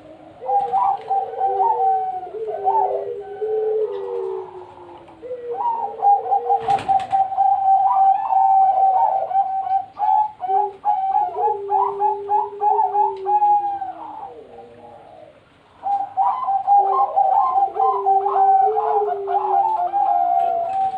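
Several zebra doves (perkutut) cooing at once, their trilled coo phrases overlapping at different pitches and pausing twice. A single sharp click sounds about seven seconds in.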